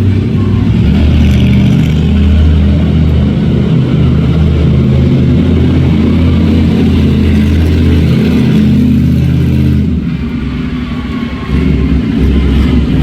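Monster truck's engine running loud and revving hard, easing off about ten seconds in and picking up again a second and a half later.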